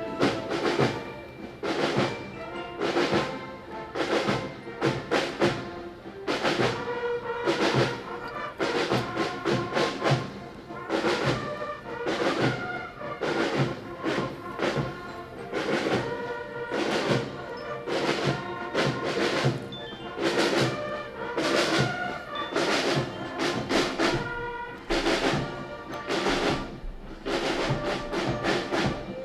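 Brass band playing a march, with a steady drum beat under the brass.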